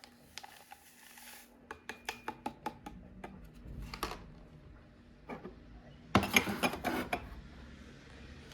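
Cutlery and dishes clinking: a run of light, quick taps about two seconds in, then a louder burst of clattering around six seconds in.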